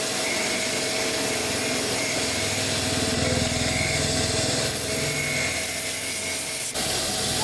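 A machine running steadily, a dense whirring noise over a low hum that swells in the middle, broken by a sudden brief dip near the end.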